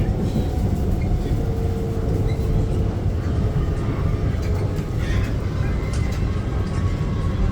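SMRT R151 metro train running between stations, heard from inside the car: a steady low rumble with faint whining tones above it.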